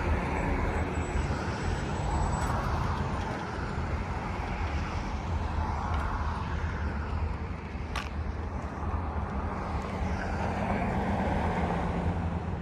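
Freight train cars rolling past over a grade crossing: a steady rumble of steel wheels on rail that swells and fades every second or two as the cars go by.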